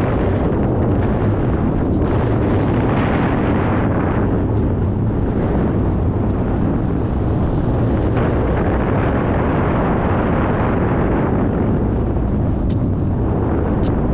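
Steady, loud rumble of wind buffeting the microphone, with a few faint clicks.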